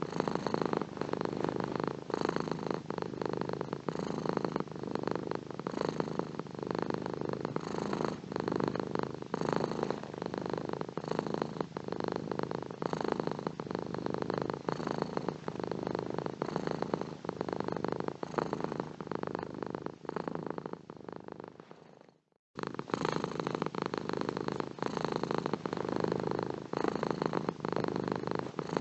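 Domestic cat purring steadily in a close, rapid rumble. About three-quarters of the way through, the purr fades out, goes silent for about half a second, then starts again abruptly.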